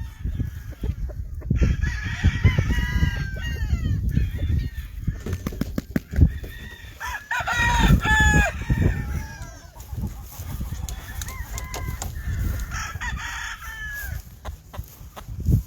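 Roosters crowing, in three bouts about five seconds apart, with clucking among them over a steady low rumble.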